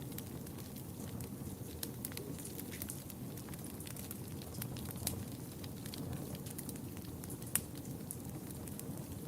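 Fire in a fireplace crackling: a steady low rush of flames with frequent sharp pops, one louder pop about seven and a half seconds in.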